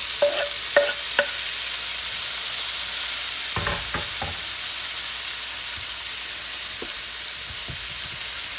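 Chopped tomato sizzling in hot coconut oil with onions, garlic and ginger in a frying pan, as it is stirred in. There are a few sharp taps in the first second and a few knocks around four seconds in.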